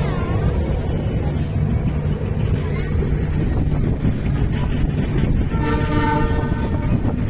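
Passenger train running, a steady low rumble of wheels on track heard from inside the coach, with the train's horn sounding for about a second and a half near the end.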